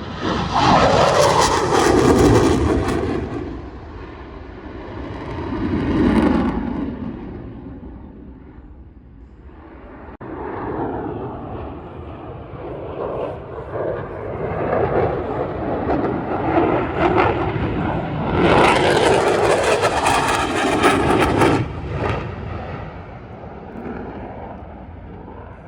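F-16 fighter jet's engine during demonstration passes, swelling and fading several times. There is a loud pass about a second in with a steeply falling pitch, a smaller swell around six seconds, and the loudest, hissing stretch from about eighteen to twenty-two seconds.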